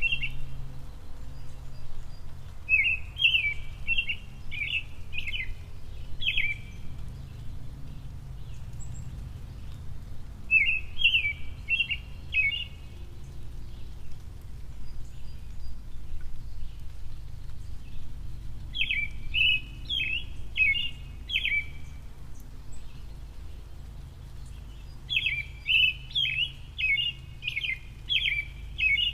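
A songbird singing short phrases of rapid chirps, repeated every several seconds, over a low steady hum.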